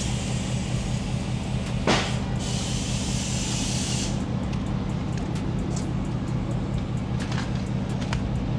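A vehicle engine running with a steady hum, a sharp click about two seconds in, then a burst of compressed-air hiss lasting under two seconds.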